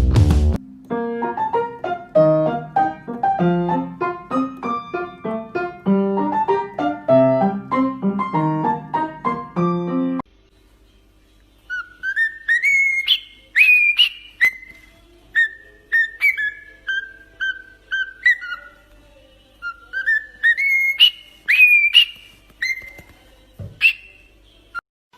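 A simple tune played note by note on a keyboard-like instrument. After a short pause, a parrot whistles in two phrases of short notes, many of them sliding upward.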